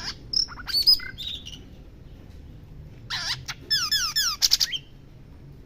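Oriental magpie-robin singing: a short phrase of sharp whistled notes near the start, then a second phrase about three seconds in with a quick run of falling slurred whistles.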